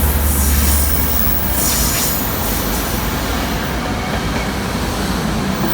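Train running past on the rails: a steady, loud rumble and hiss of wheels on track, with a low drone in the first second.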